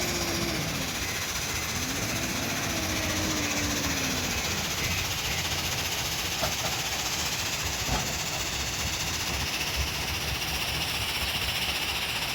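JCB 3DX backhoe loader's EcoMAX diesel engine running steadily at work, with a whine that rises and falls once in the first few seconds and a couple of faint knocks around the middle.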